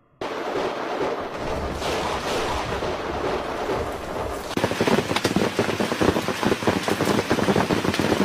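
Thunderstorm: heavy rain with thunder rumbling. About halfway through the rain becomes louder, a dense, rapid crackling patter.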